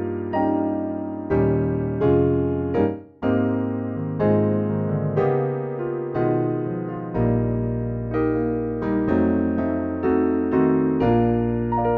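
A piano-type keyboard sound from the MKSensation Xtreme iPad sound-module app playing a sequence of sustained chords. A new chord is struck about every second and fades until the next, with a short break near the middle.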